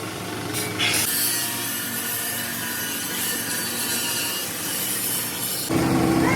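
A workshop machine or power tool runs with a steady rasping, sawing-like hiss. Just before the end it switches abruptly to a louder, lower machine hum.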